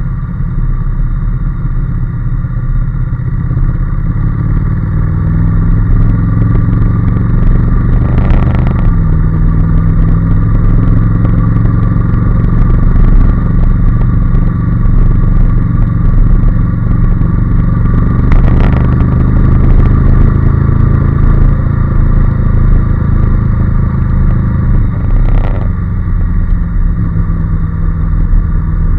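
Honda NC750S's 745 cc parallel-twin engine running under way, its note rising in pitch and then dropping suddenly twice, about nine seconds in and near the end, as it goes up a gear.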